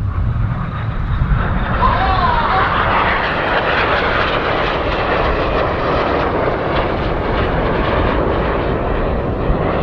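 Two BAE Hawk T1 jets, each with a single Rolls-Royce Adour turbofan, passing low at speed in an opposition cross: a loud jet rush that swells over the first second or two and then holds steady.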